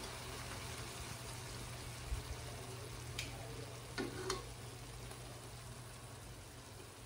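Chicken pieces in soy-and-calamansi sauce sizzling gently in a wok, with a few sharp clicks of metal tongs against the wok about two, three and four seconds in as the pieces are picked up.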